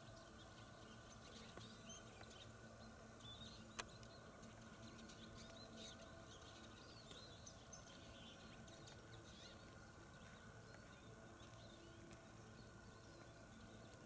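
Near silence with faint, scattered bird chirps, and a single sharp click about four seconds in.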